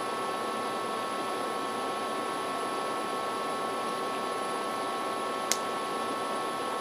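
Steady background hiss with a few faint, thin electrical whine tones, and a single sharp click about five and a half seconds in.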